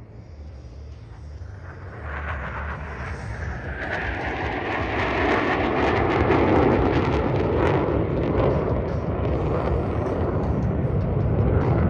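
Fighter jet flying past: a roar that builds from about two seconds in, is loudest a little past the middle, and stays loud with a crackle toward the end.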